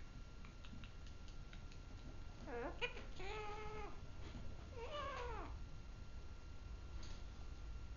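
Pet parrot giving three drawn-out pitched calls: a short rising one, a longer held one, then a falling one, with a few faint clicks before them.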